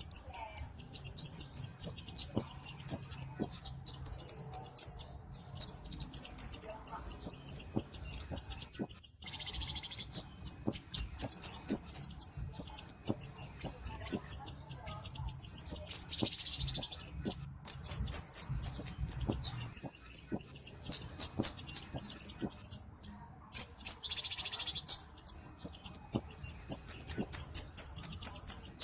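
Flowerpecker (kemade) calling: rapid trains of very high, thin ticking notes, a few seconds at a time with short breaks between, and a few brief hissy notes among them.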